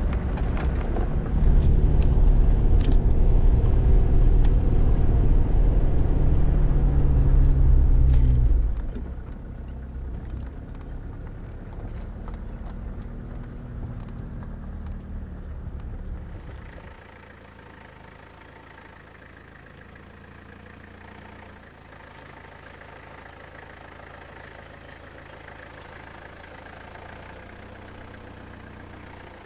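A 4x4 off-road vehicle's engine running as it drives, loud for the first eight seconds or so. It then drops to a quieter, steady hum, and drops again a little past halfway.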